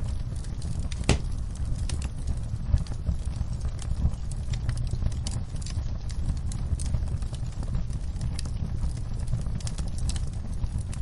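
Fireplace fire crackling steadily over a low rumble, with scattered sharp pops and one louder pop about a second in.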